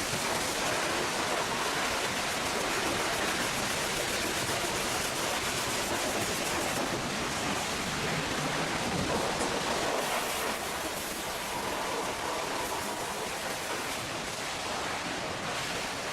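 High-pressure water spray hissing steadily against a truck, easing slightly about two-thirds of the way through.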